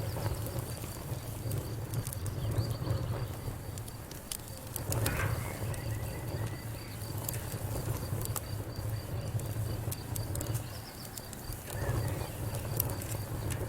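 Wood fire crackling in a fireplace: irregular sharp snaps and pops over a steady low rumble of the flames. A faint, even, high pulsing trill runs beneath it.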